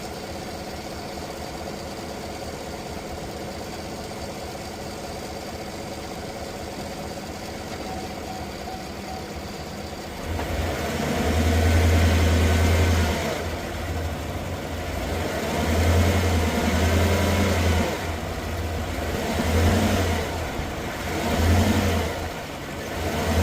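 2016 Chevy Tahoe's V8 idling steadily, then revved hard four or five times in short bursts from about ten seconds in. This is done to rock the engine on a bad driver's side motor mount.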